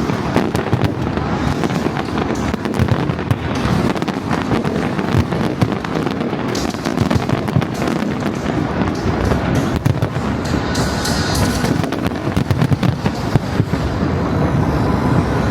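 Fireworks display at full intensity: a dense, unbroken run of bangs and crackling bursts.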